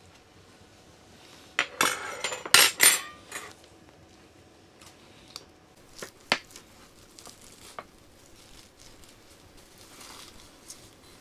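Cutlery and dishes clinking and clattering, with a close run of sharp clinks about two seconds in, then a few lighter clinks scattered after.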